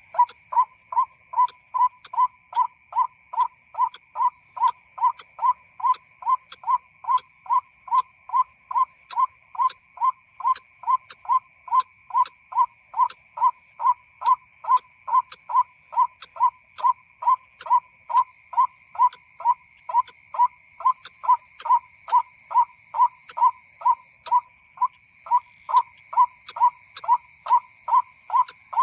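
White-breasted waterhen call played as a lure from an MP3 speaker: one short call repeated about two and a half times a second, perfectly even in pace and loudness, over a faint steady high-pitched hum.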